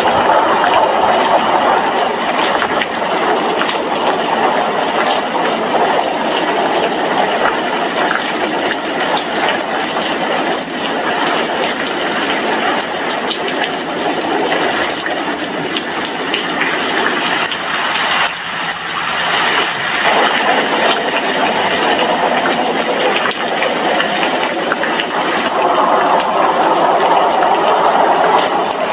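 Steady rain falling outside an apartment window: a dense, even hiss of drops that eases briefly about two-thirds of the way through.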